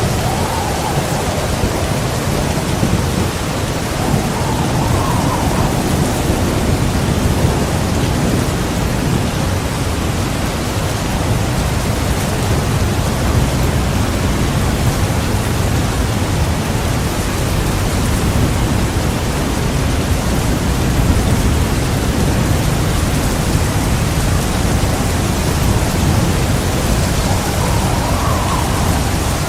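Heavy rain pouring steadily, with a continuous low rumble of thunder underneath.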